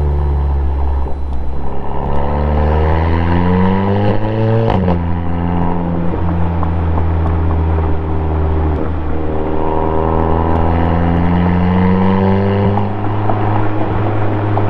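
2016 Audi S3's turbocharged 2.0-litre four-cylinder running through a custom 3-inch single-exit exhaust with one resonator, under acceleration. The pitch climbs, drops suddenly at a gear change about five seconds in, rises again, then falls away as the car comes off the throttle near the end.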